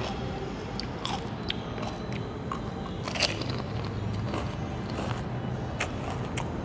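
A crisp fried puri shell filled with spiced buttermilk being crunched and chewed in the mouth: scattered sharp crunching clicks over a low steady hum.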